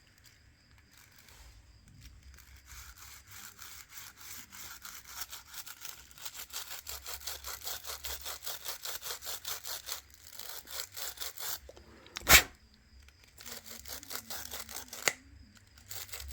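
Fast back-and-forth scraping strokes on a smartphone's frame, about five a second, typical of scrubbing off old screen adhesive. The strokes stop briefly a little past the middle, where a single sharp click is the loudest sound; a second, smaller click follows a few seconds later.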